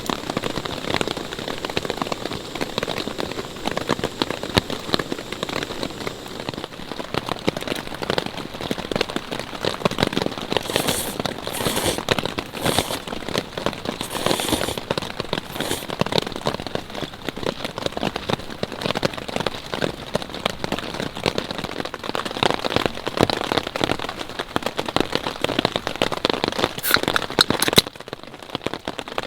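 Steady rain, with many close drops striking in a dense, even spread. A few brief high hissing sounds come about a third of the way in, and the rain drops suddenly quieter near the end.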